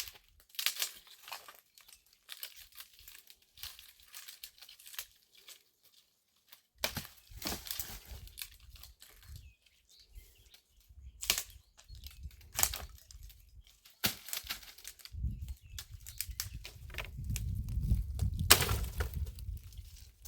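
Intermittent rustling and crinkling with a few sharp clicks, like things being handled. A low rumble sets in about three-quarters of the way through.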